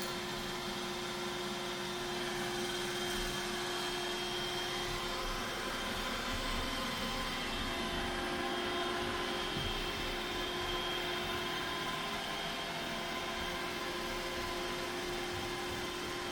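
A steady mechanical hum with several constant tones, unchanging throughout.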